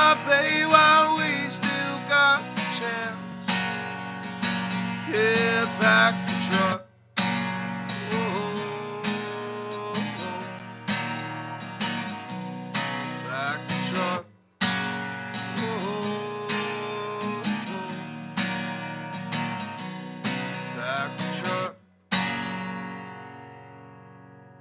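Acoustic guitar strumming chords with a melody line over it, stopping dead three times, then a final chord left ringing and fading away.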